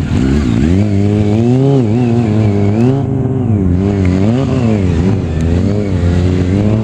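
Motorcycle engine revved up and down repeatedly, its pitch rising and falling several times over a steady low engine drone.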